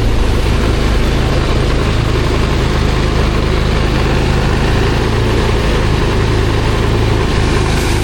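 Engine of a rice threshing machine running steadily at constant speed, a loud, even hum with no change in pitch.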